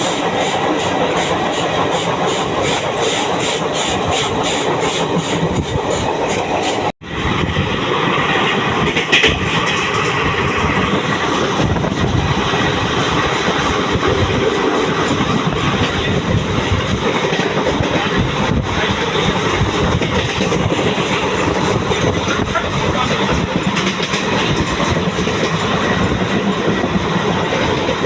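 Passenger train running along the track, its wheels clattering steadily over the rail joints. The sound cuts out for an instant about seven seconds in, then carries on.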